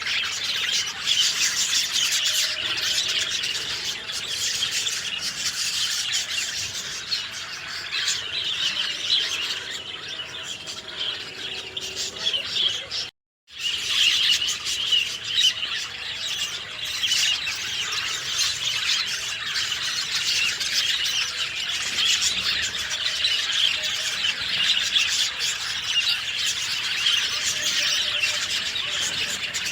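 A dense chorus of many small birds chirping and twittering at once, with high calls overlapping thickly throughout. The sound drops out to silence for a moment about halfway through, then the chorus resumes.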